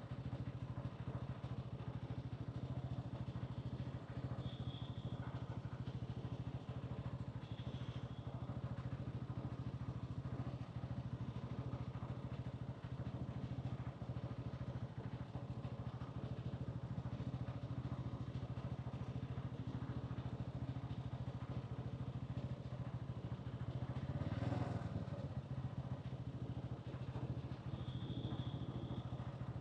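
Hansom Bike Venet 125cc motorcycle engine and exhaust running steadily, with one brief swell of noise late on. Three short high beeps sound along the way.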